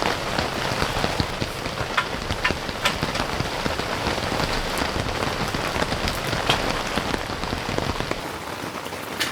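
Heavy rain falling, with many single drops striking sharply close by.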